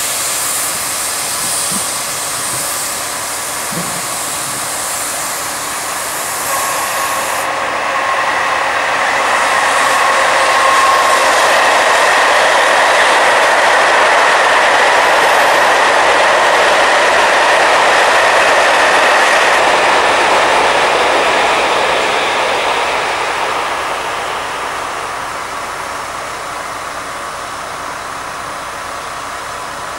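A regional passenger train passes on a nearby track, swelling from about a quarter of the way in, loudest mid-way with a steady whine, and fading off a few seconds before the end. Under it runs the steady noise of a BB 69000 diesel locomotive's engine, just started.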